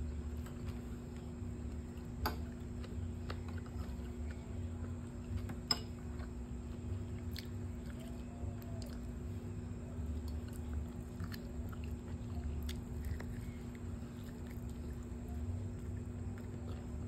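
Close-up chewing and biting as a person gnaws boiled beef rib meat off the bone, with a few sharp clicks scattered through, over a steady low hum.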